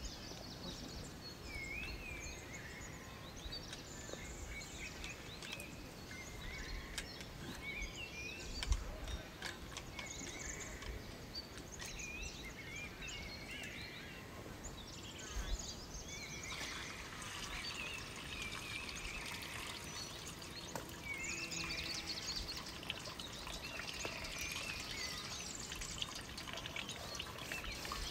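Outdoor ambience with many small birds chirping and twittering over a steady background hiss, with a few low thumps.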